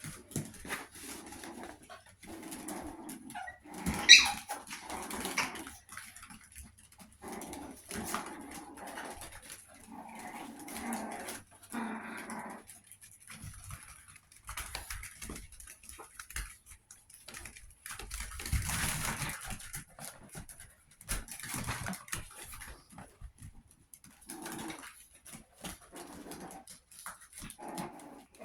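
Chihuahua puppies making small sounds, with a sharp high yelp about four seconds in, amid many brief clicks and knocks.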